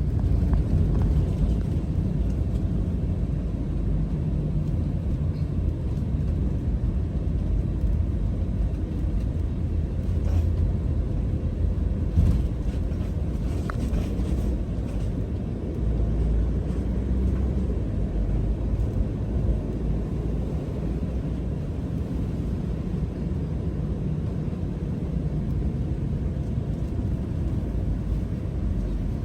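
Motorhome driving along the road: a steady low engine and road rumble.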